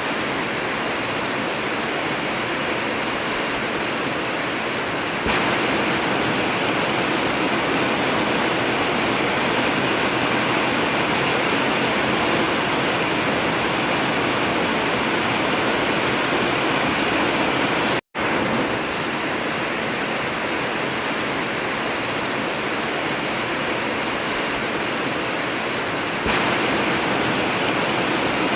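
Heavy rain falling on an old corrugated zinc roof, a steady dense hiss with no thunder. It grows a little louder about five seconds in, cuts out completely for a split second about two-thirds of the way through, and eases slightly near the end.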